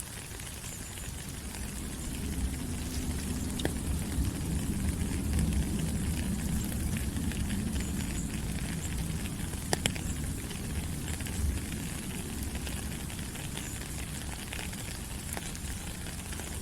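Steady rain falling on rainforest foliage, a dense hiss with scattered louder drops. A low rumble swells a few seconds in and then eases off.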